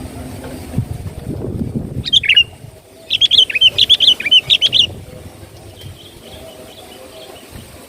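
Sooty-headed bulbul calls: a short chirp about two seconds in, then a fast burst of chattering calls lasting about two seconds, with fainter calls after. A low rumble comes before the calls.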